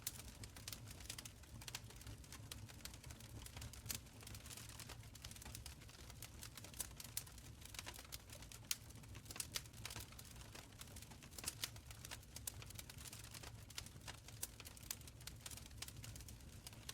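Wood fire in an open stone fireplace crackling quietly, with irregular sharp pops and snaps over a soft low rumble of the flames.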